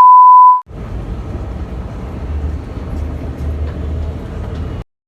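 A loud, steady high-pitched beep lasting under a second, like an edited-in bleep, then about four seconds of low rumbling train noise that cuts off suddenly near the end.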